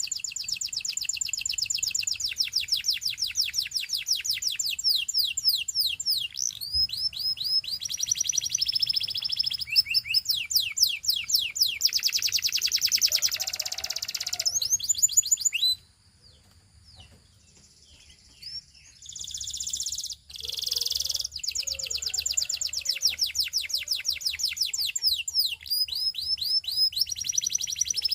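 Belgian singing canary in full song: long trills of rapid repeated high notes, each phrase changing to a new note pattern, breaking off for about three seconds past the middle before starting again.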